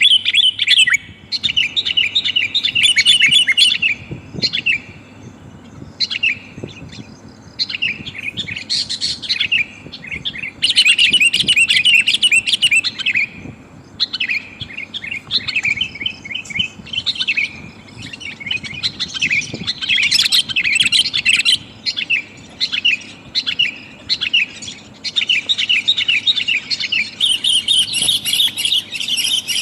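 Sooty-headed bulbul (kutilang) calls: rapid, busy chattering in bouts of a few seconds, broken by short pauses. It is a lure recording of a female calling to males.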